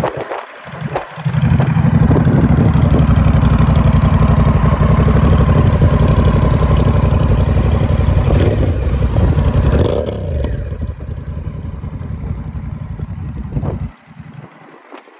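2024 Honda Rebel 1100T DCT's parallel-twin engine, breathing through an aftermarket exhaust, catches about a second in and runs loud and steady for several seconds. It then settles quieter and cuts off suddenly near the end.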